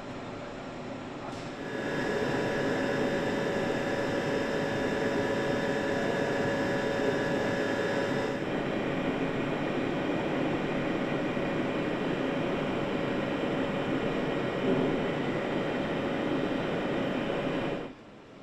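Factory machinery running: a steady mechanical din with several constant tones. It gets louder about two seconds in, a high tone drops out about eight seconds in, and the sound cuts off abruptly near the end.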